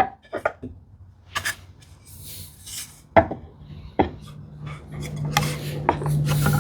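Wooden drawer parts being test-fitted by hand: scattered sharp wood-on-wood knocks and taps with short scraping and rubbing as a drawer back is worked into its housing dado. A low steady hum builds in the background from about halfway through.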